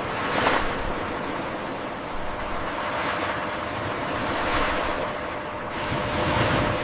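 Ocean waves washing and surging, a rushing noise that swells and ebbs several times.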